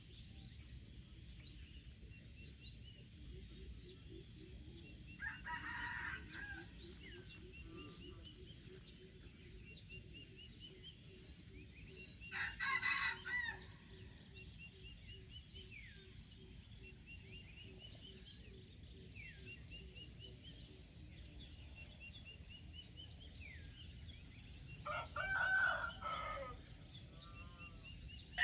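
A rooster crowing three times, several seconds apart, over a steady high insect buzz and scattered small bird chirps.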